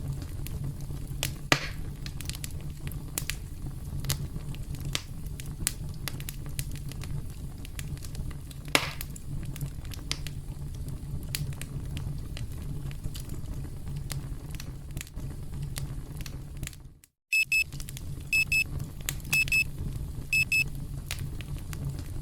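Campfire crackling, with a few sharp pops from the burning wood. About three-quarters of the way through the sound cuts out briefly. Then a high electronic alarm beeps in quick groups of two or three as the countdown timer reaches zero.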